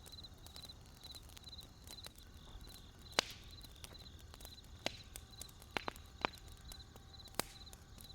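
Wood campfire crackling, with a few sharp pops, the loudest about three seconds in, over crickets chirping steadily at about two or three chirps a second.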